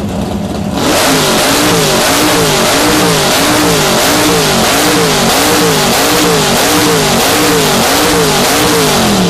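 Plymouth Duster engine on open headers, very loud, idling briefly and then from about a second in revved over and over in quick blips, about one and a half a second. The run measures 122 decibels.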